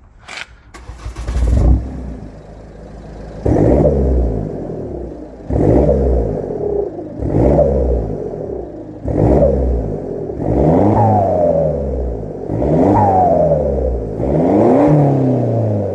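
Ford S-Max 2.0-litre Duratorq diesel engine through a straight-piped exhaust with the back box deleted, blipped about seven times in a row from a few seconds in. Each rev rises and falls back in pitch.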